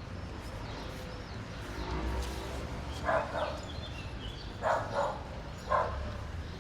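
A dog barking: five short barks, two about halfway through, two more a second and a half later, then one near the end.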